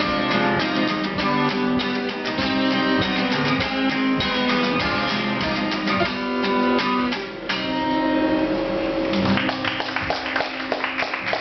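Acoustic guitars playing the instrumental ending of a song, with dense plucked notes. The playing dips briefly about seven and a half seconds in and turns choppier after that.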